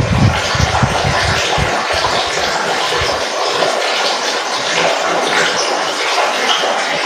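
Flowing water splashing and trickling steadily, with irregular low rumbling pulses in the first three seconds or so.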